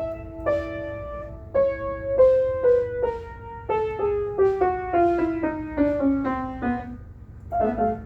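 Piano playing a few held notes, then a descending run of single notes that speeds up and ends on a low note, followed by a short chord near the end. A low steady hum sits underneath.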